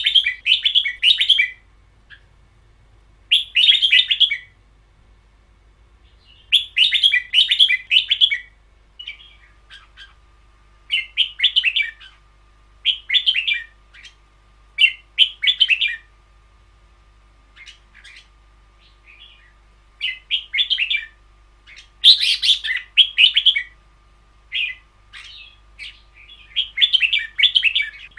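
Red-whiskered bulbul singing: loud, chattering song phrases of about one to two seconds, repeated every couple of seconds with short gaps, in the 'long double' song style bred and trained for in caged bulbuls.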